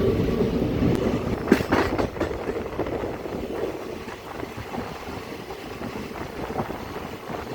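Passenger train running on the track, heard from on board as a steady rumble, with a few sharp clanks of the wheels and couplings about one and a half to two seconds in. The rumble grows quieter toward the end.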